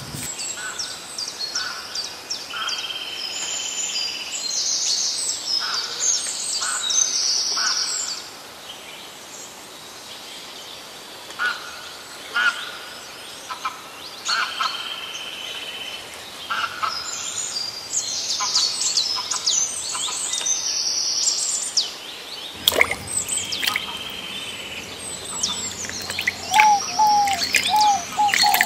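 Several birds chirping and singing, with short high whistles and trills called again and again.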